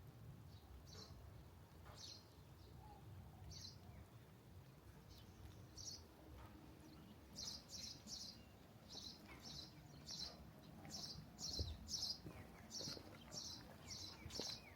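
A small bird chirping, one short high note every second or two at first, then a quicker run of about two chirps a second through the second half, over a faint low rumble.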